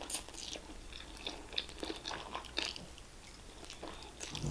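Close-up mouth sounds of eating udon noodles: noodles drawn into the mouth and chewed, a string of short wet clicks and smacks.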